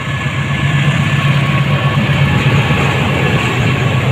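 Train passing close by: a loud, steady engine drone with a rumbling roar of the cars over the track.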